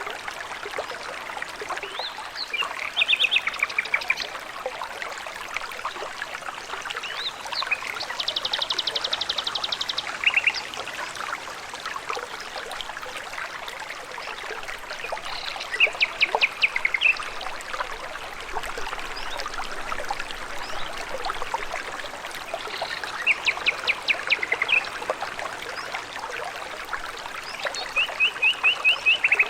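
A small stream trickling steadily, with a songbird singing over it: short phrases of fast repeated notes, one every few seconds, the longest a trill of about two seconds.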